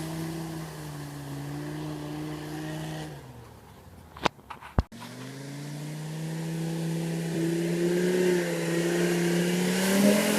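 UAZ off-roader's Mercedes OM617 3.0-litre five-cylinder diesel running at steady revs, then dropping away about three seconds in. After a short, near-quiet gap with two sharp clicks, the engine comes back and climbs gradually in pitch.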